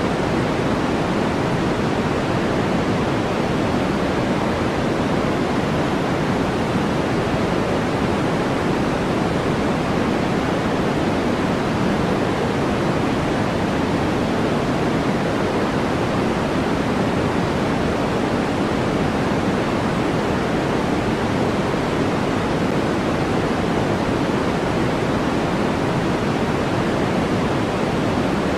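Synthetic white-noise track: a steady, unchanging hiss, fuller in the lower pitches than in the treble.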